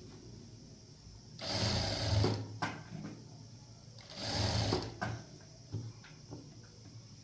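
Sewing machine stitching in two short runs of about a second each, with a few sharp clicks after each run.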